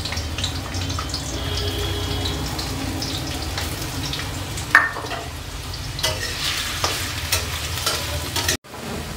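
Potato slices sizzling as they fry in hot mustard oil in a metal kadhai, with a metal spatula clinking and scraping against the pan a few times as they are stirred.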